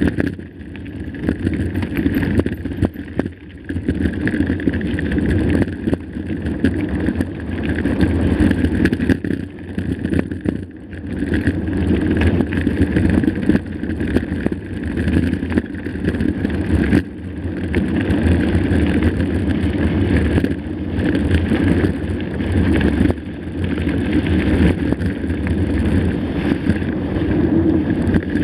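Mountain bike riding over a rough, rocky trail, heard from a camera on the bike or rider: a continuous rumble and rattle of tyres and frame over the ground, with many small clicks and knocks and wind buffeting the microphone.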